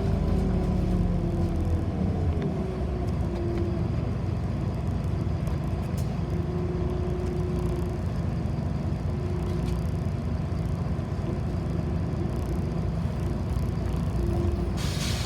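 City bus running, heard on board: a steady low drone with a motor whine that falls in pitch over the first two or three seconds, then an even run with a tone that comes and goes. A short hiss near the end.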